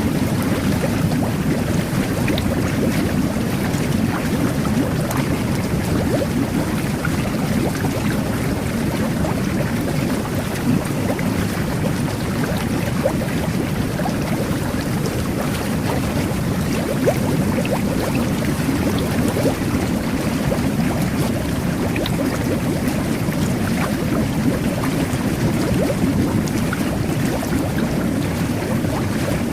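Whirlpool jet bath running: water jets churning and bubbling in the tub, a steady low rushing with small scattered pops of bubbles.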